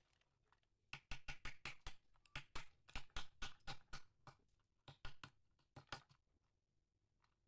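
Hard coconut shell pieces tapping and clicking against one another in a quick, irregular run of sharp clicks, about four a second, which stops after about five seconds.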